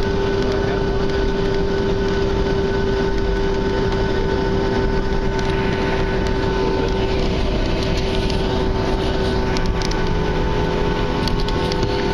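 Boeing 737's CFM56 turbofan engines running steadily, heard inside the passenger cabin: a constant loud rush of noise with several steady whine tones.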